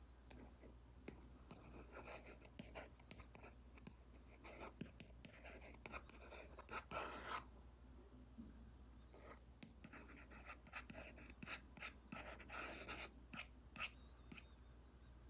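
Stylus tip tapping and stroking on an iPad's paper-like matte screen film: light taps and short scratchy strokes, with one longer stroke about seven seconds in.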